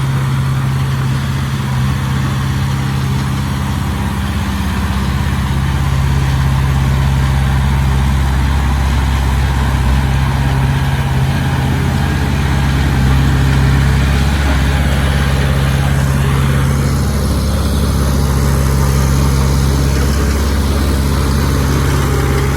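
Heavy diesel engine running steadily at a low, even pitch, the working sound of earthmoving machinery.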